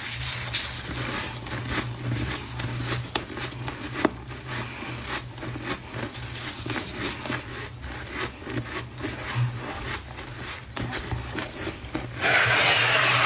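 Close-up crunching and chewing of fresh frost, a dense run of small crisp crackles. A louder steady rasp lasting about a second comes near the end.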